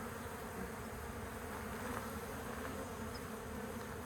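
Honeybee colony buzzing steadily, many bees in flight at once as the colony is opened and transferred to a new hive: an even, unbroken hum.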